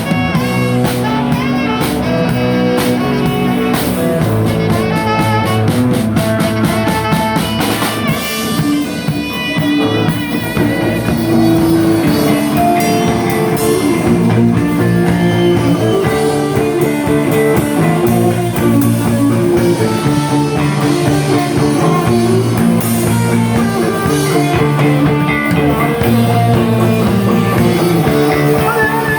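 Live rock band playing an instrumental passage: electric guitar, bass and drum kit, with quick, even drum strokes through the first eight seconds or so.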